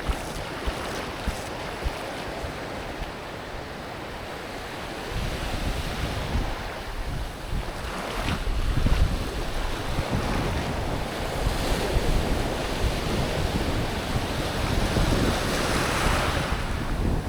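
Ocean surf washing onto a beach, with wind buffeting the microphone. The wind rumble grows heavier about five seconds in, and a wave swells and breaks near the end.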